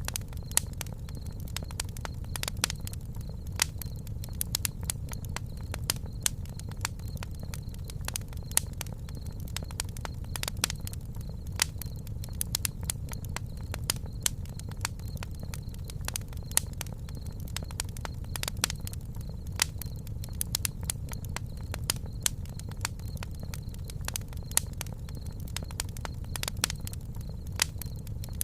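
Campfire burning, wood crackling with frequent irregular sharp pops over a steady low rumble.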